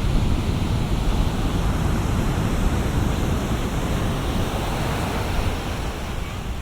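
Ocean surf: breaking waves and the wash of whitewater, a steady rushing sound that eases a little near the end.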